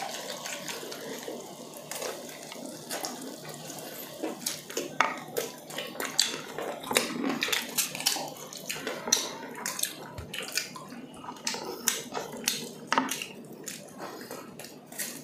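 Two people chewing grilled chicken inasal eaten by hand: a steady stream of irregular small clicks, smacks and crackles.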